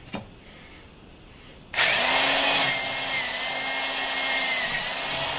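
Electric drill starts about two seconds in and runs steadily, boring a hole through plywood.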